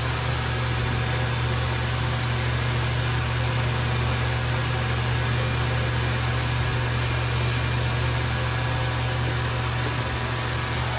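Steady machine hum with an even hiss, running unchanged throughout: an electric motor running in the shop.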